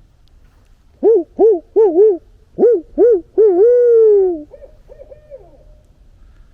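Barred owl hooting its "who-cooks-for-you, who-cooks-for-you-all" call: four quick hoots, a pause, two more, then a long drawn-out falling final note. Fainter hoots follow.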